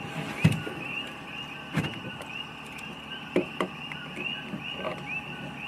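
A chorus of small animals chirping steadily, several short high calls a second. A few sharp knocks or cracks cut through it, the loudest about half a second in and others near 2 and 3.5 seconds.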